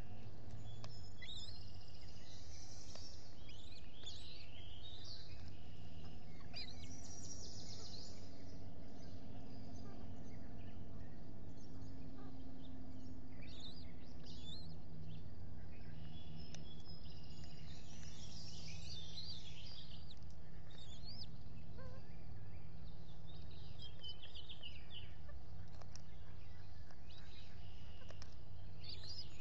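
Wild birds chirping and singing in short bursts every few seconds over a steady low background rumble.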